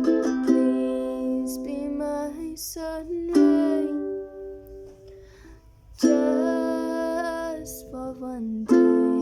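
A solo song: a strummed acoustic string instrument plays chords every second or two, with a voice singing long held notes over it.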